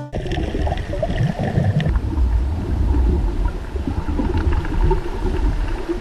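Water recorded underwater: a dense, uneven low rumble and gurgle with scattered faint clicks, as picked up by a diver's camera.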